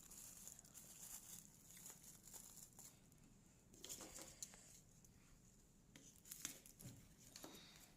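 Faint rustling and crinkling of firework packaging, with light knocks as the packs and boxes are set down on a wooden table.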